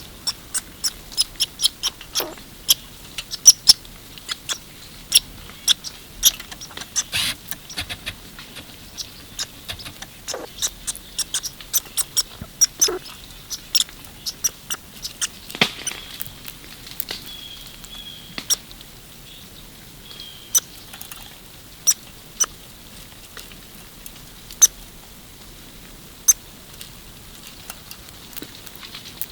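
Irregular sharp clicks and taps, thick in the first half and sparser later: a squirrel scrabbling at a bird feeder and handling seeds.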